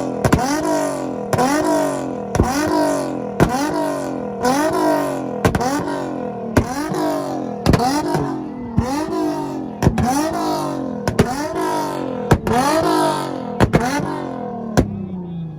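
Nissan Z car's VQ V6 revved hard over and over, roughly once a second, each rev rising and dropping back with a sharp exhaust pop or crack as the throttle closes. Near the end the revs die away toward idle.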